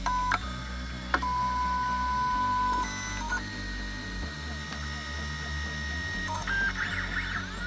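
3D printer stepper motors running a print: two sharp clicks in the first second and a half, then steady whines that jump to a new pitch with each move, and near the end rising and falling pitches as the head traces curves.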